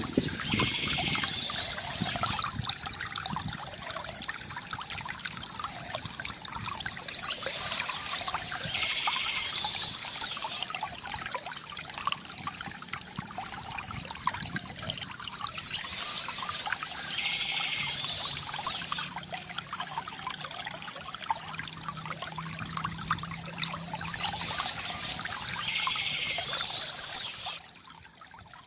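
Small stream trickling and splashing steadily, with short bursts of birdsong chirping recurring about every eight and a half seconds. The water sound drops away sharply near the end.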